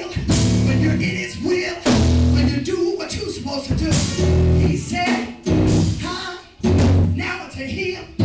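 Church band music with heavy bass notes about every two seconds, drums and guitar, and a voice over it.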